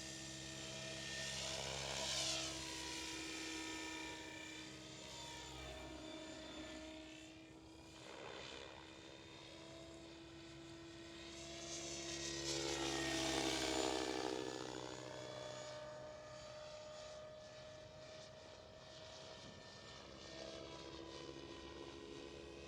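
SAB Goblin Kraken 700 electric RC helicopter in flight, its motor and rotor whine rising and falling in pitch as it passes, loudest about two seconds in and again around thirteen seconds.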